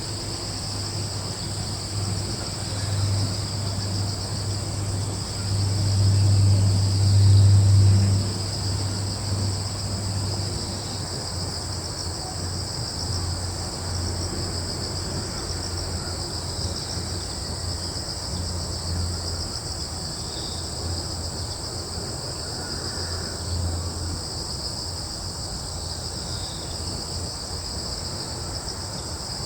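A steady chorus of crickets, trilling continuously in two high-pitched bands. Under it a low rumble swells and is loudest about six to eight seconds in, then fades to a fluttering murmur.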